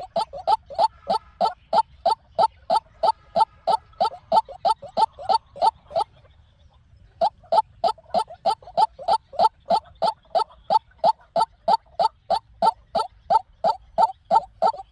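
White-breasted waterhen calling: a fast, even series of short rising notes, about three to four a second, breaking off for about a second partway through and then starting again.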